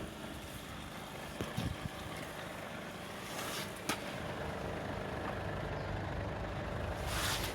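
Steady low rumble of a vehicle engine running in the background, with a few light knocks.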